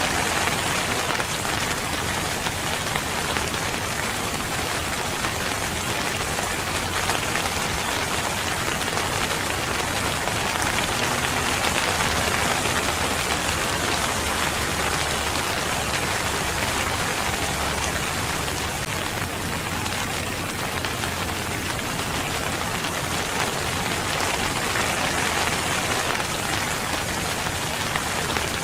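Steady rain falling on a surface, a dense even patter with no thunder.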